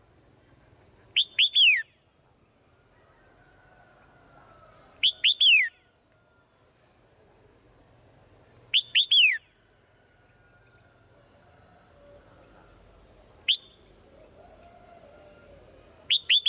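Swallow calling: a group of two quick chirps and a longer falling note, repeated about every four seconds, with one lone short chirp between the last two groups. A faint steady high hiss runs underneath.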